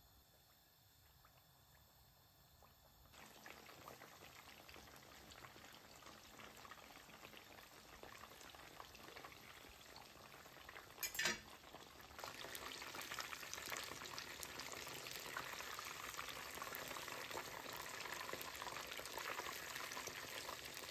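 Breaded chicken fillets shallow-frying in hot oil, a dense crackling sizzle that starts faint, picks up about three seconds in and gets louder again a little past halfway. A single short knock comes just before that louder stretch.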